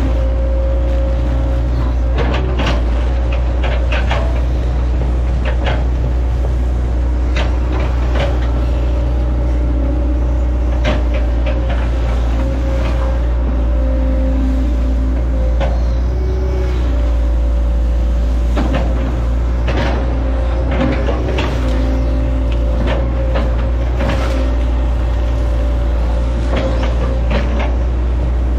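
Hitachi ZAXIS 110 excavator's diesel engine running steadily under load with a steady hydraulic whine, broken by frequent sharp cracks and knocks as the machine fells and chops oil palm trees.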